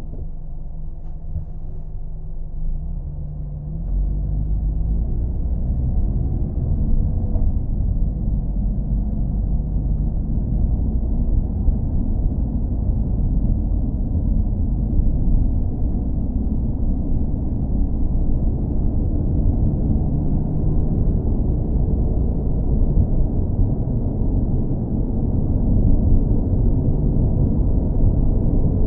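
Steady low car engine and road rumble, a muffled drone with almost nothing high-pitched in it. About four seconds in, it grows louder and deeper.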